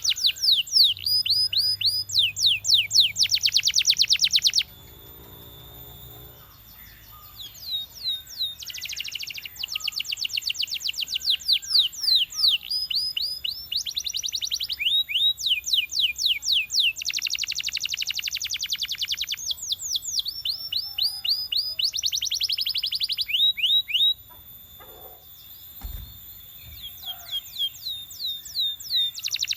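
Belgian canary singing: fast buzzing trills and rolls of quickly repeated notes, alternating with runs of short falling whistled notes, with two brief pauses in the song.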